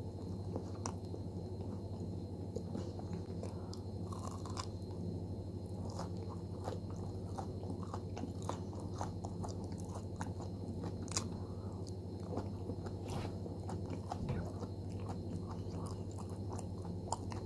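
Close-miked biting and chewing of a crisp pastry snack: many small irregular crunches and crackles, over a steady low hum.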